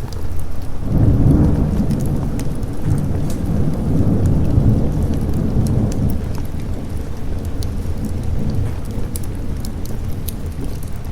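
A long roll of thunder, swelling about a second in and easing off over several seconds, over steady rain with scattered sharp ticks.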